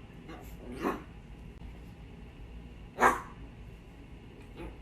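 A dog giving two short barks about two seconds apart, over a faint low hum.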